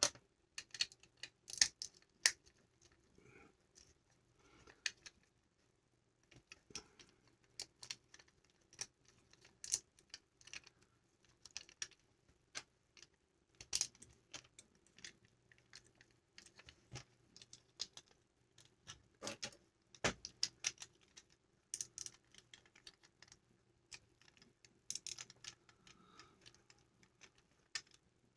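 Vintage LEGO bricks and parts being handled and pressed together: irregular sharp plastic clicks and taps, a few of them louder.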